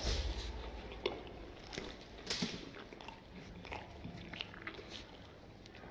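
People chewing thick, heavy Kashmiri naan: scattered wet mouth clicks and smacks, with one louder hissing breath or slurp about two and a half seconds in.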